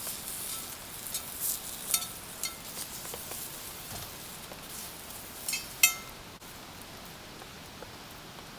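Metal cookware and utensils clinking a few times with a brief metallic ring, loudest about six seconds in, over a faint frying sizzle that fades away.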